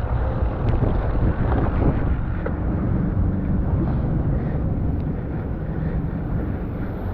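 Wind rushing over the microphone of a moving road bicycle, with a steady low road rumble.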